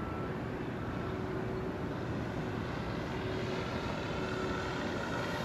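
Electric RC FlightLine Corsair warbird flying at a distance: a steady, faint hum of its motor, propeller and added engine-sound system. It grows a little louder near the end as the plane comes back toward the pilot.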